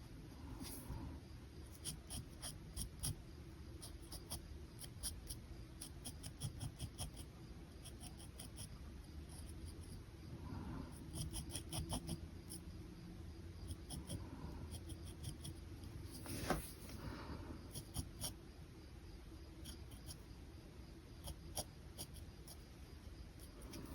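Pen sketching on paper: quiet scratchy strokes with frequent light ticks as the pen touches down and lifts.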